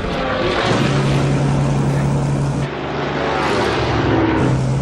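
Messerschmitt Bf 109 fighter's piston engine and propeller droning in flight, a steady loud drone with the pitch shifting as it moves.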